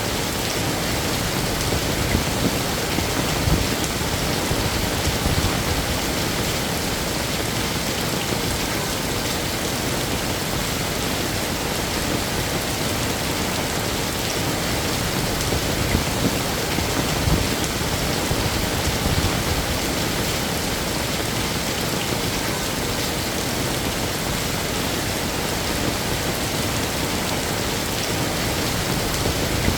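Heavy rain falling steadily: a dense, even hiss of rain with a few brief louder spatters.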